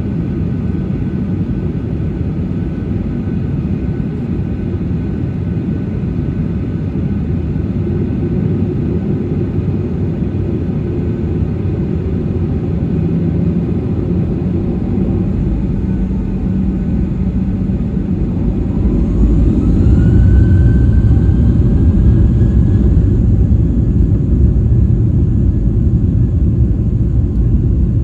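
Boeing 737-800's CFM56-7B turbofan engines heard from inside the cabin, running with a steady low rumble, then spooling up to takeoff thrust with a rising whine about two-thirds of the way through. After the spool-up the rumble is louder and stays there as the takeoff roll gets under way.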